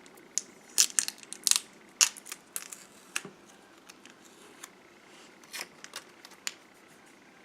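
Small plastic containers being handled: a run of sharp plastic clicks and crinkles over the first three seconds or so, then a few more clicks about five to six and a half seconds in.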